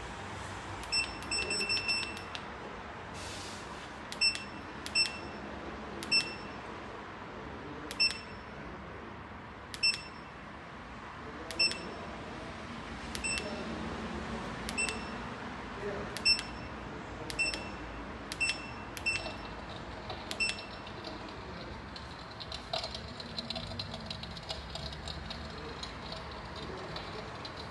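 Electric fireplace beeping short, single beeps about every one to two seconds as it answers its remote control, with a quick cluster of beeps near the start, over a steady hiss. The beeps stop about twenty seconds in, and a fine crackle from the fireplace's fire sound effect carries on.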